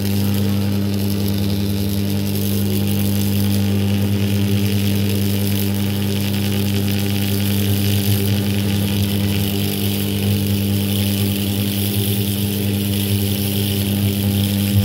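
Microwave oven transformer energised on mains power, giving a loud, steady low buzz with strong overtones over a steady hiss.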